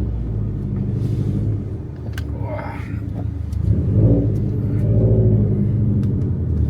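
Subaru WRX STI's turbocharged flat-four boxer engine running through a twin exhaust with both rear silencers deleted, a rowdy rumble that swells with throttle blips, dipping around two seconds in and rising again from about four seconds in.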